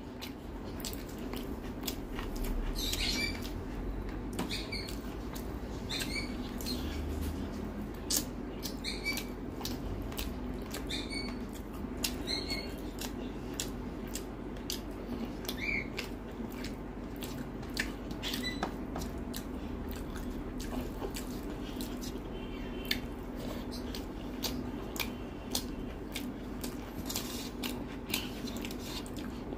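Close-miked eating: a person chewing with many short wet clicks and smacks of the mouth, with soft squelches from fingers mixing rice and curry. A steady low hum runs underneath.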